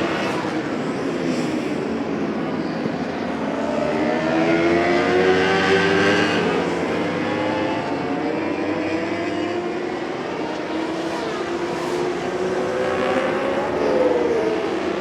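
Endurance-racing motorcycles at high revs, engine pitch repeatedly climbing and dropping as they accelerate, shift and pass, with louder swells about a third of the way in and again near the end.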